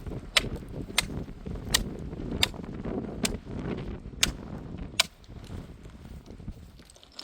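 A series of sharp knocks, about one every three-quarters of a second, over a low rumbling noise that dies down about four and a half seconds in.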